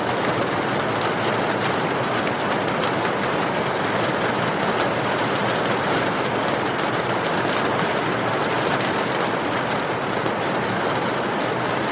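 Steady rain making an even rushing hiss, with many small sharp crackles of burning firewood scattered over it.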